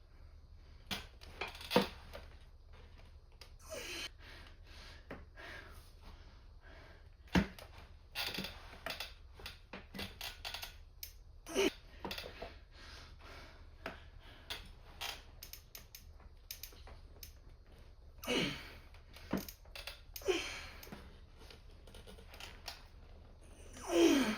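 Gym equipment being handled: scattered clicks and knocks, a few louder knocks, and some short scraping sounds near the end.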